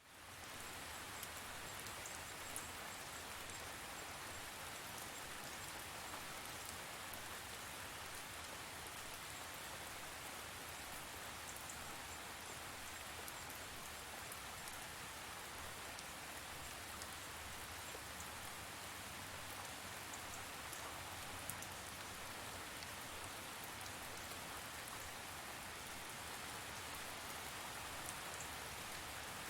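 Steady rain falling, with scattered individual drops ticking on a surface, fading in at the start.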